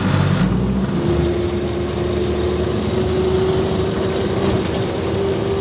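A vehicle running: steady engine and road rumble, with a steady hum that comes in about a second in and creeps up slightly in pitch.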